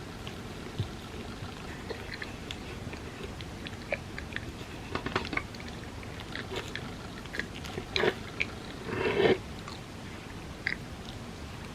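Close-miked wet chewing of soft crepe cake, with scattered mouth clicks and smacks over a steady hiss. The chewing is busiest in the middle of the stretch, with one louder, longer smack about nine seconds in.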